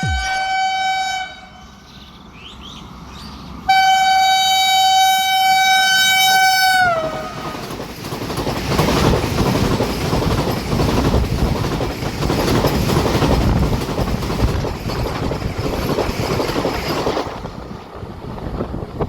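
Indian Railways express train passing at speed: the end of one horn blast, then a second blast of about three seconds whose pitch drops as the train goes by. Then the rushing noise of the coaches passing for about ten seconds, fading near the end.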